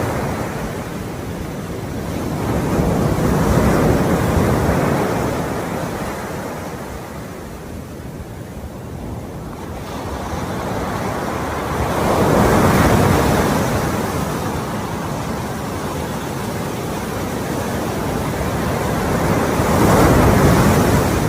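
Ocean waves surging and washing in, each surge swelling and fading about every eight seconds, with three peaks in all.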